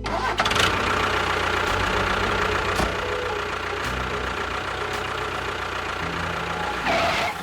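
A small motor-driven machine running steadily with a faint whine, starting just after the beginning and cutting off near the end.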